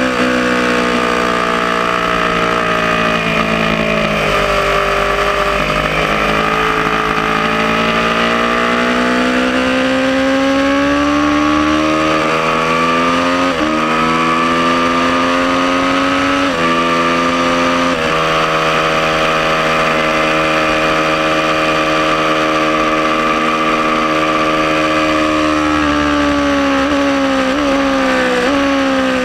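Aprilia Tuono motorcycle engine at track speed: the pitch falls at first, climbs in a long pull, drops in two steps as gears are shifted up, holds steady at high revs, then jumps up in short steps near the end as it is shifted down. A steady rush of wind runs under it.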